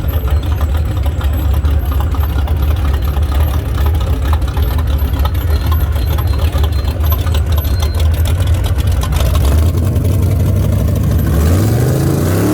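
Car engines running with a steady deep rumble as parade cars roll by. Near the end one engine revs, its pitch climbing.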